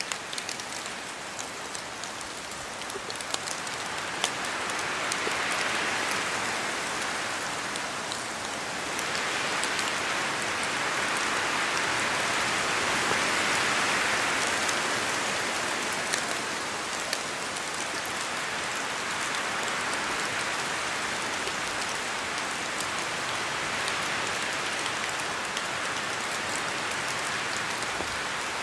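Steady rain falling through forest trees, with scattered individual drops striking close by. The rain noise swells and eases twice, as gusts of wind shake water from the trees.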